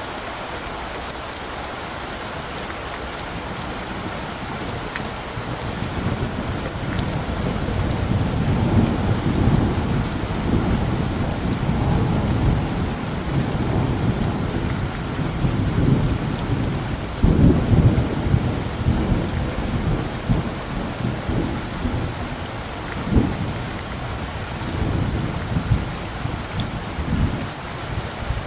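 Steady rain falling, with a long, low roll of thunder that builds a few seconds in, is loudest just past the middle and fades away near the end.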